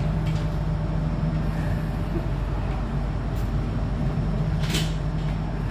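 Steady low hum and drone inside an MRT Jakarta train car, with a few light clicks and a short hiss about three-quarters of the way through.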